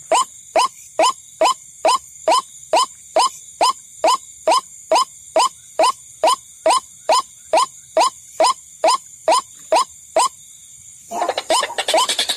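Recorded white-breasted waterhen (ruak-ruak) calls played as a trapping lure: an even series of short rising calls, about two and a half a second, over a steady high whine. Near the end they pause briefly, then a faster, denser run of calls starts.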